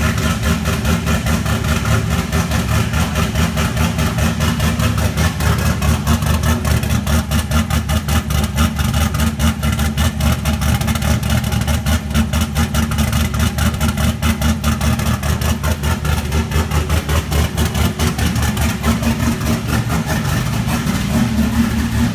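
C6 Corvette's LS3 V8 with a Spin Monster cam and single S480 turbo idling on its first start-up, the idle pulsing with an even, choppy lope.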